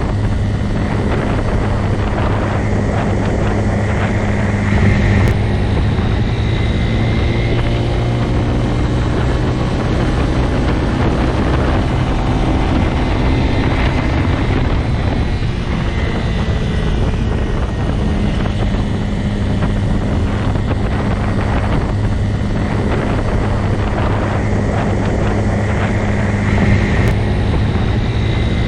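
Motorcycle engine running at a steady speed: a constant low drone that hardly changes in pitch or loudness.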